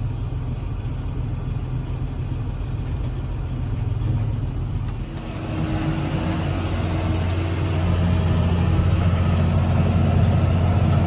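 Tractor engine running, heard from inside the closed cab; about five seconds in it gets louder and fuller and stays up.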